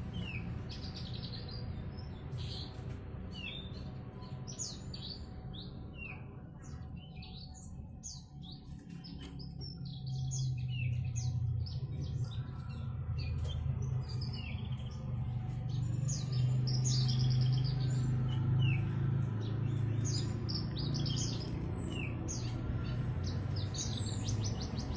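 Australasian bush lark (branjangan) singing continuously in full song: a fast, varied string of short chirps, trills and quick buzzy note runs. A low rumble runs underneath and grows louder for the middle stretch.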